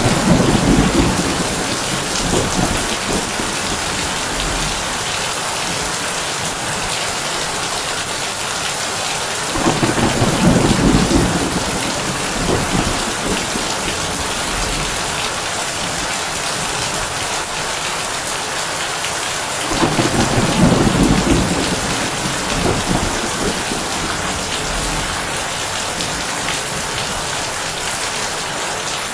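Heavy rain drumming steadily on a tin roof, with three low rolls of thunder about ten seconds apart: at the start, about a third of the way in and about two thirds of the way in.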